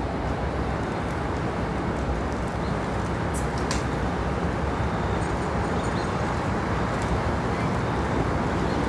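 Aircraft engine noise: a steady low rumble with no clear pitch, and a couple of faint clicks near the middle.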